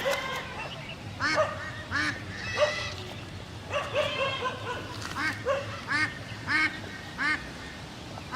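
An animal calling over and over in short, arched calls, one about every half second to a second, with a few gaps.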